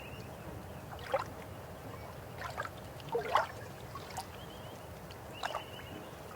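River water flowing steadily, with several short gurgles and splashes over it, the loudest a little past three seconds in.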